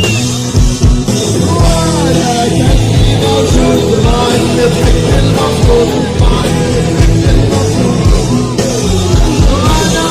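Live rock band playing loudly, a singer over drums, bass and guitar.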